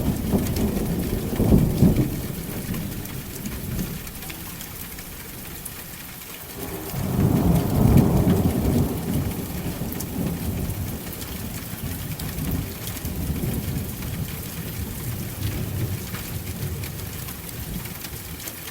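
Steady rain with thunder: a rumble fades out over the first couple of seconds, and a louder roll of thunder swells up about seven seconds in, then dies away into softer rumbles under the rain.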